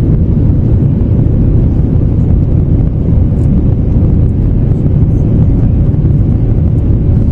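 Steady in-flight cabin noise of an Airbus A321neo heard from a window seat: a loud, even rumble of engine and airflow, with a faint steady hum above it.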